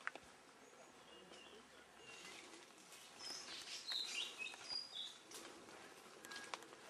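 Faint forest ambience with birds giving short, high chirps and whistles, busiest about three to five seconds in.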